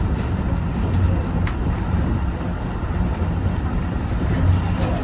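Senseki-Tōhoku Line HB-E210 series hybrid diesel train running along the line, heard from the cab as a steady low rumble with a pulsing hum. Two short clicks come through, one about a second and a half in and one near the end.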